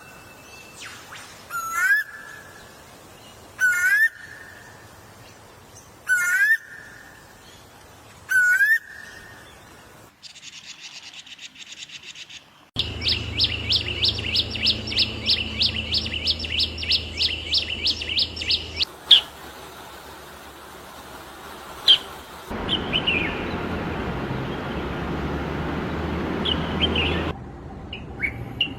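Birds calling and singing in several distinct stretches. First comes a loud rising call repeated five times, about two seconds apart. About halfway in there is a fast, even run of notes lasting some six seconds, and then scattered chirps over a steady hiss.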